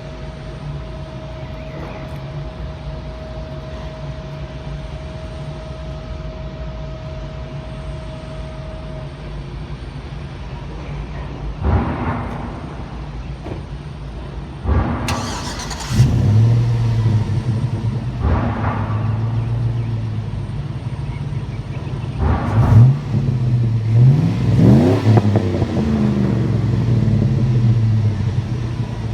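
2005 Chevrolet Silverado's 4.8-litre V8 running through a Borla Pro XS muffler, idling steadily. From about halfway through it is blipped several times in short revs that rise and fall in pitch.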